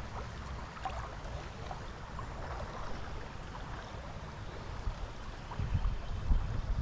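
Creek water flowing steadily, with small trickles and splashes, and a few low thumps near the end.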